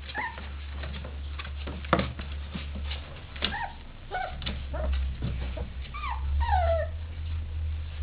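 Three-week-old Portuguese Water Dog puppies whimpering: short, high whines that fall in pitch, several times, the longest near the end. Light knocks and scuffles from the puppies moving around come in between.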